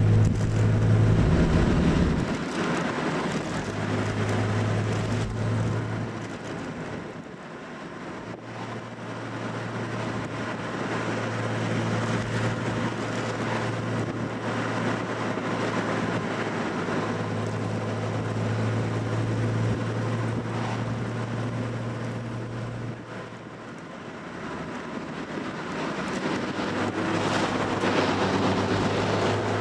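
Classic Nissan car's engine and exhaust droning at a steady cruise, mixed with road and wind noise. It grows louder near the end as the road enters a tunnel.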